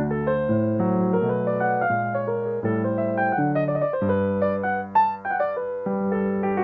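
Solo piano playing a gentle piece, with new chords and melody notes struck about every half second to a second.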